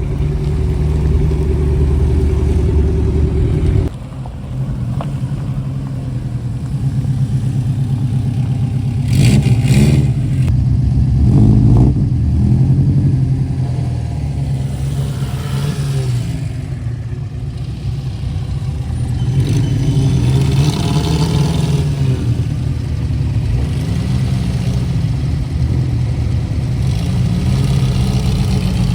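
A car engine running, its revs rising and falling at times.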